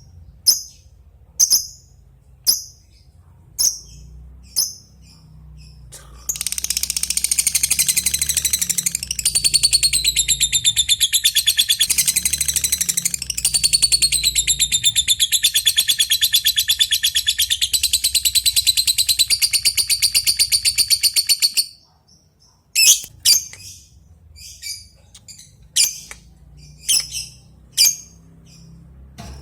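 Lovebird's single sharp chirps about once a second (the 'ngetik' call used to call a rival), then a long, fast chattering trill (the 'ngekek') that runs about fifteen seconds and stops abruptly, followed by more single chirps.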